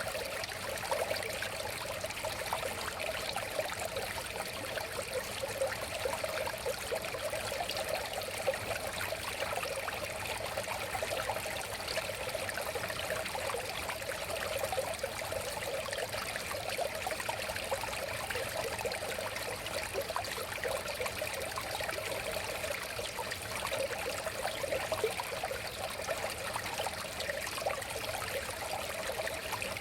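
River water flowing steadily over stones, a continuous burbling rush with fine splashing.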